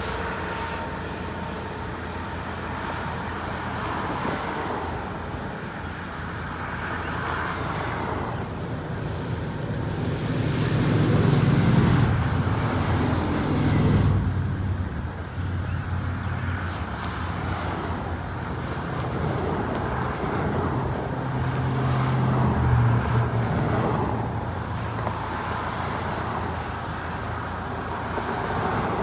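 Steady road traffic: a line of cars driving past one after another, with louder engines swelling by about ten to fourteen seconds in and again around twenty-two seconds in.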